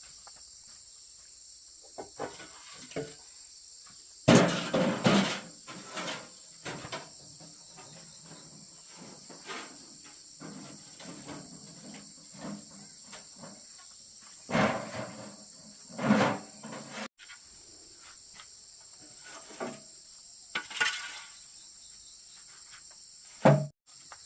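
Steady high chirring of insects, crickets or cicadas, with scattered loud knocks and clatters from work on the wooden house, the loudest a few seconds in and again in the second half.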